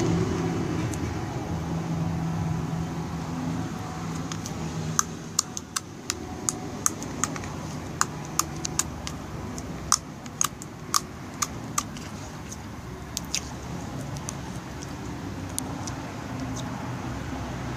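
Slime being pressed and squeezed by hand, giving an irregular run of sharp clicks and pops through the middle, over a low steady rumble.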